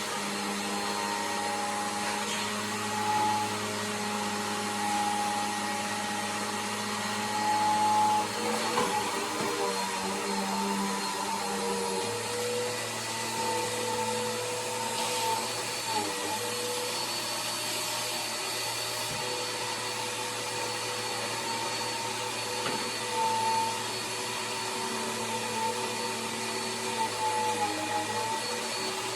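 Bissell PowerForce vacuum cleaner running steadily, its motor hum shifting in pitch now and then, with a few brief louder moments.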